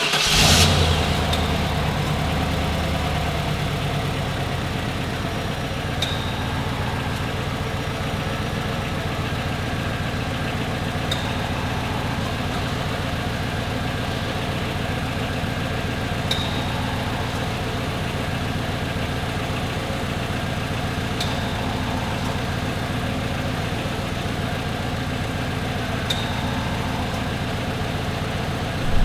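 1996 Chevrolet Impala SS's 5.7-litre LT1 V8 cold starting: it catches with a brief flare of revs and then settles into a steady fast idle. A faint high tick repeats about every five seconds.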